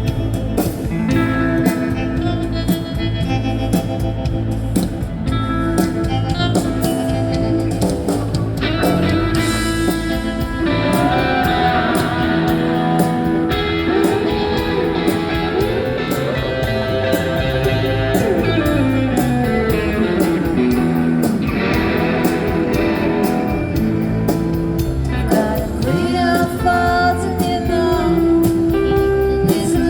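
Rockabilly band playing an instrumental break between choruses, with a guitar carrying a wavering, gliding lead line over a steady bass and drum backing.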